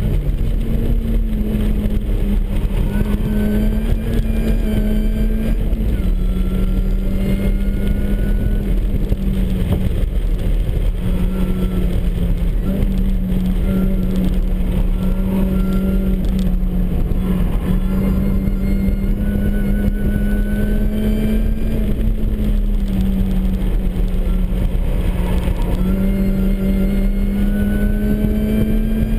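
Supercharged MINI Cooper S engine working hard at full throttle, its note climbing and dropping back every few seconds as it shifts through the gears, with a high supercharger whine rising alongside, over steady road and wind rumble.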